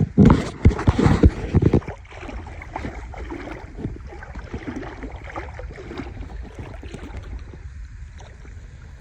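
Water sloshing and splashing around someone wading in shallow water, loud and choppy for the first two seconds, then softer and more even, over a low wind rumble on the microphone.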